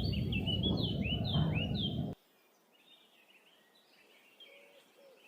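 Birds chirping in short, repeated notes over a steady background rumble. About two seconds in, the sound cuts off suddenly, leaving only faint chirps.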